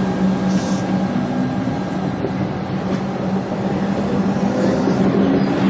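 Melbourne suburban electric train running past along the platform: a steady hum with the rumble of its wheels on the rails.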